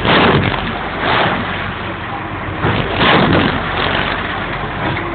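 Ferry engine running with a steady low drone under a loud rushing noise that swells at the start, about a second in and again around three seconds in.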